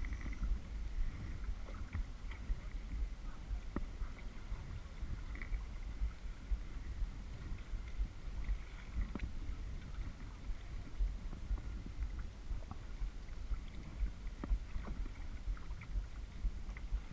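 Kayak on the move: small splashes, drips and water lapping against the hull, scattered irregularly over a steady low rumble.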